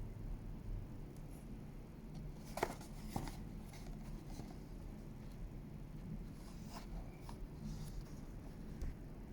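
Handling noises: two sharp clicks about two and a half and three seconds in, then a few fainter clicks, over a low steady hum.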